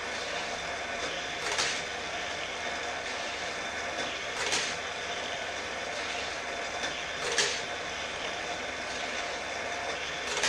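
Battery-powered Hot Wheels Super-Charger booster motor whirring steadily. A die-cast car zips through its spinning wheels about every three seconds, four times, as it laps the track.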